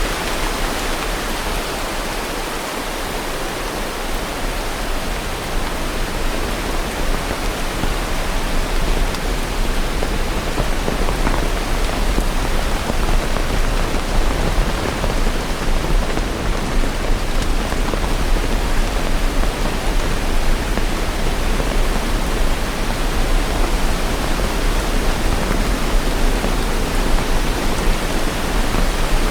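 Steady rain falling, an even, unbroken hiss with a low rumble beneath it.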